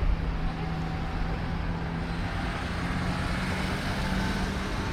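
Street traffic noise with a steady low engine hum from a nearby vehicle, which fades out near the end.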